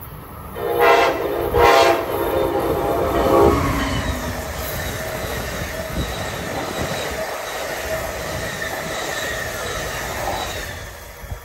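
Amtrak passenger train's horn sounding two blasts, a short one and then a longer one, as the train nears. It is followed by the steady rush and clatter of the passenger cars' wheels running past on the rails, fading near the end.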